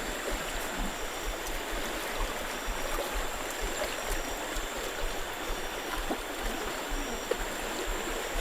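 Steady rush of flowing water from a mountain stream or waterfall.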